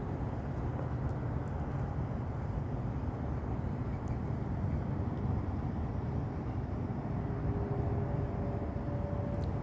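Airbus A319 in its climb after takeoff: a steady, low engine and airflow rumble. Near the end a faint steady tone comes in, the start of the A320-family fuel overpressure protector (FOPP) howl.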